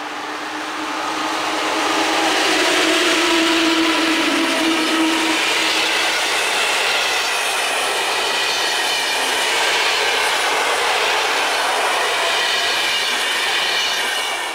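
EP07 electric locomotive and its intercity passenger coaches passing at speed. The locomotive's humming whine drops in pitch as it goes by, then the coaches roll past with a steady rushing noise and high ringing tones. The sound fades near the end.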